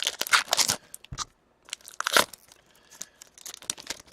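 Crinkling and tearing of a card pack's wrapper as a pack of hockey cards is opened and handled, in several short rustling bursts.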